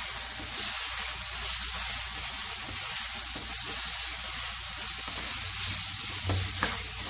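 Mutton mince frying with tomato and yogurt in a non-stick pan, sizzling steadily as a spatula stirs it through, with a couple of light spatula knocks near the end.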